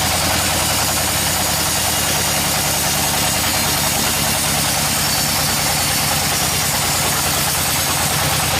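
Sawmill machinery running steadily: an even engine-like hum with a constant hiss over it, holding the same pitch and level throughout.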